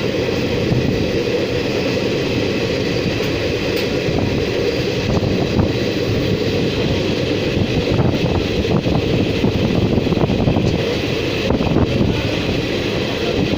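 A train running: a loud, steady rumble of wheels on track that holds level throughout, with a few faint clicks.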